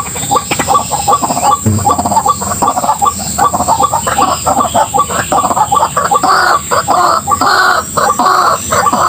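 White-breasted waterhen calling: a fast run of harsh, repeated croaking notes, several a second, that grow longer and louder toward the end.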